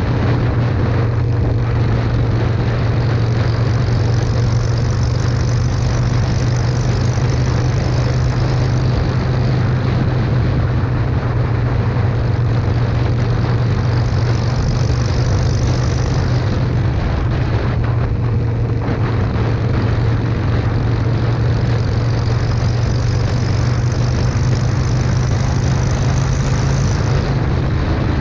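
Harley-Davidson Sportster 883's air-cooled Evolution V-twin running through shotgun exhaust pipes with Thunder Torque inserts, held at a steady, even engine speed while riding.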